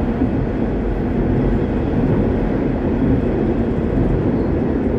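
Busan Metro Line 3 Hyundai Rotem IGBT-VVVF train running at speed between stations, heard from inside the car: a steady rumble of wheels on rail and running gear, strongest in the low-mid range.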